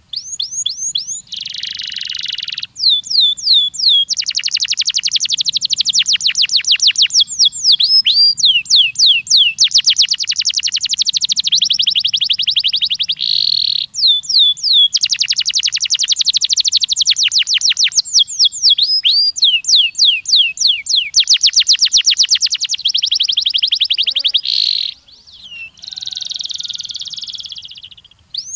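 Canary singing a long song of fast trills, each phrase a rapid run of one repeated note, some notes sweeping down in pitch, with brief pauses between phrases.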